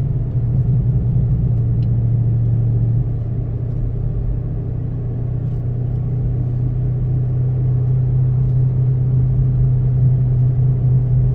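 2006 Ford Mustang GT's V8 running under way with tyre and road noise, a steady low drone heard from inside the car. It eases off about three seconds in, then builds gradually louder again.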